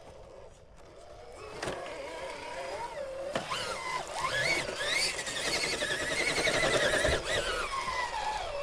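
Electric motor and gear drive of an RC rock crawler whining as it climbs, its pitch rising and falling with the throttle and growing louder through the second half, with a few sharp knocks as the truck hits rock.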